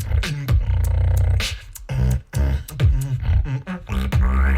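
Beatboxing: a vocal beat of deep, held bass tones broken by falling-pitch kicks and sharp snare and click sounds.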